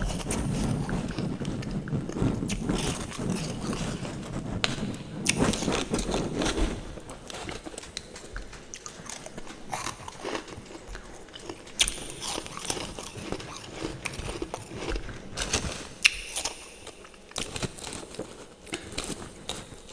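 Close-up biting and chewing of refrozen freezer frost and ice chunks: a run of irregular crisp crunches, busiest in the first several seconds, with a few loud sharp bites spread through the rest.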